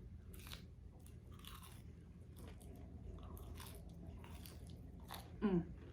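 Crispy bacon being bitten and chewed close to the microphone, with short crunches throughout. Near the end comes one short voiced 'mm' that falls in pitch.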